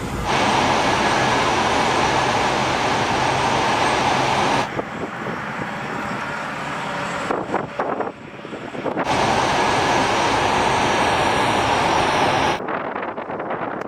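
C-17 Globemaster III's turbofan jet engines running loud with a dense roar. The sound drops abruptly about five seconds in, comes back loud about nine seconds in, and drops again near the end.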